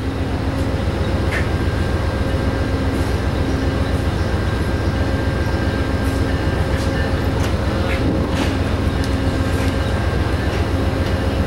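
Train sound: a steady, pulsing low rumble with a constant hum over it and a few faint clicks.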